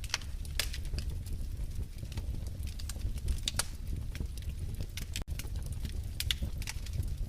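Wood fire in a fireplace crackling: irregular sharp pops and snaps over a steady low rumble of the flames. The sound drops out for an instant about five seconds in.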